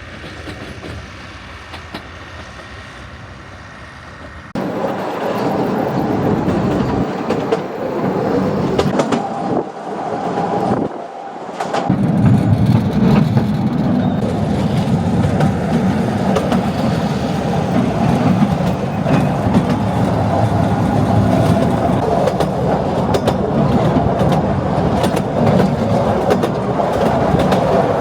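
Narrow-gauge Artouste mountain train running on its track, with a dense rumble of wheels and rails and scattered clicks. The sound is quieter at first and jumps much louder about four and a half seconds in. It dips briefly near the middle, then settles into a steady heavy rumble.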